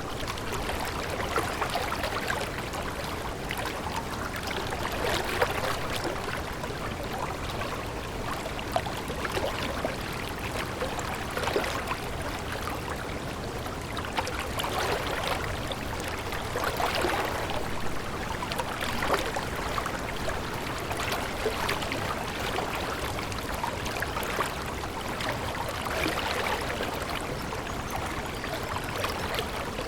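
Running water of a small stream flowing steadily, with many small splashes and trickles.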